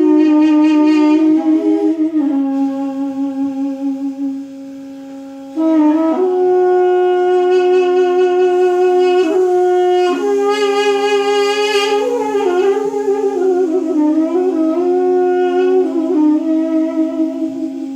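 Duduk-family double-reed pipes (balaban and duduk) in duet: one holds a steady low drone while the other plays an ornamented, sliding melody above it. The melody pauses for about a second roughly four seconds in, and the drone breaks briefly for a breath around the middle.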